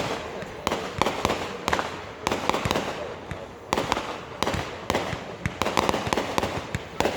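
Fireworks going off: a steady run of sharp bangs and pops, some single and some in quick crackling clusters, several a second at times.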